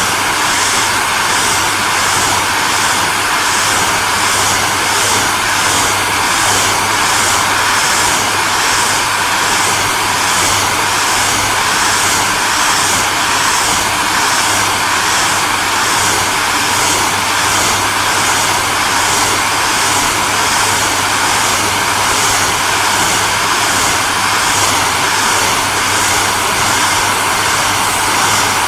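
Hairdryer running steadily: a constant rush of blown air with a steady motor whine and a low hum beneath it, and a faint even flutter in the high hiss.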